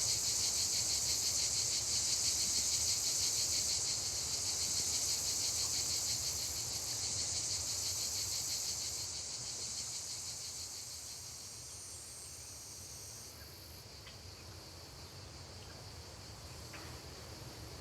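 Cicadas buzzing in a dense, rapidly pulsing chorus that slowly fades away.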